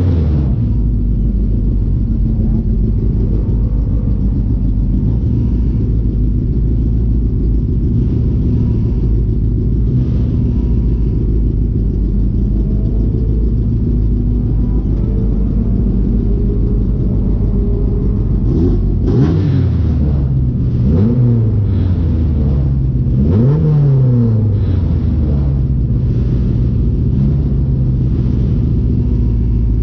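Race car engine idling, heard from inside a stripped-out cabin. About two-thirds of the way in the throttle is blipped three times, the revs rising and falling quickly each time, as at a start line.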